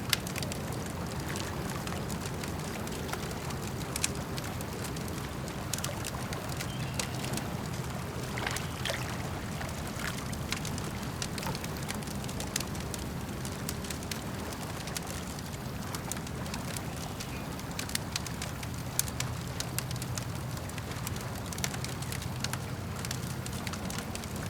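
Campfire crackling, with irregular sharp pops and snaps, over a steady low wash of lake water lapping.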